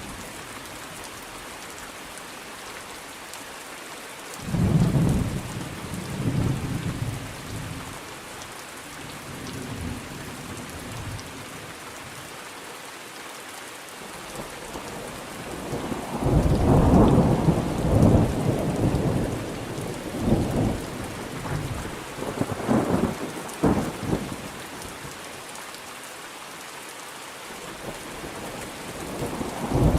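Steady rain with rolling thunder: a rumble about five seconds in, a longer, louder roll of thunder from about sixteen to twenty-four seconds, and another rumble building near the end.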